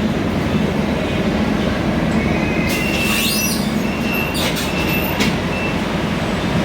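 Scania K320iA CNG city bus heard from inside while under way: a steady engine and road rumble with a low hum. Between about three and five seconds in come a few sharp clicks or rattles and brief high squeaks.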